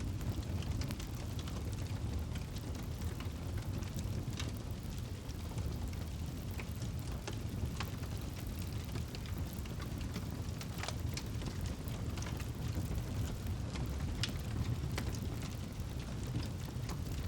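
Campfire burning steadily, with scattered sharp crackles and pops from the burning wood over a low, even rumble of flames.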